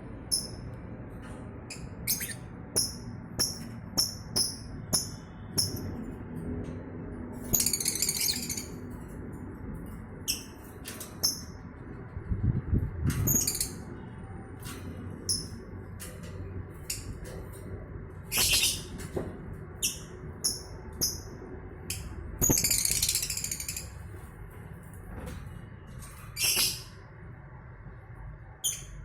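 Lovebirds giving short, high-pitched chirps, many times over, with several brief bursts of rustling among them.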